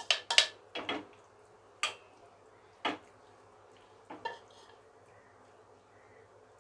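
A metal cooking utensil clinking and knocking against a pan as the next batch of chicken pieces goes in to fry. A quick cluster of clinks comes in the first second, then single clinks about a second apart, stopping after about four seconds.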